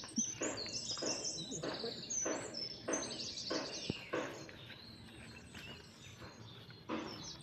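Small birds chirping and twittering over and over, with a few short bursts of lower scuffling noise among them.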